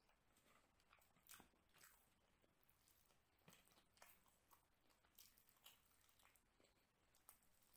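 Faint close-up eating sounds: chewing a mouthful of chicken biryani, with irregular soft wet mouth clicks and smacks.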